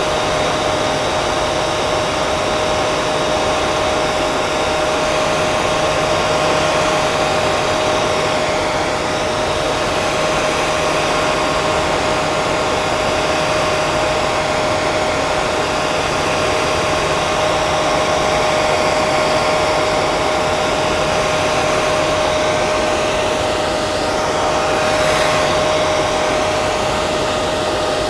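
Electric hair dryer running continuously: a steady rush of blown air with a constant motor hum.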